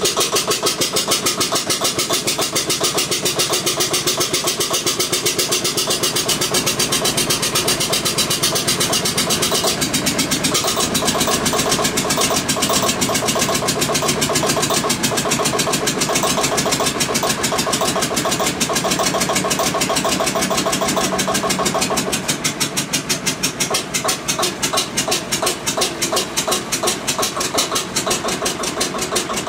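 Old Witte diesel generator engine running steadily on its first start in 45 years: a fast, even chugging of firing strokes. The sound shifts slightly about a third of the way in, and it is a little quieter in the last third.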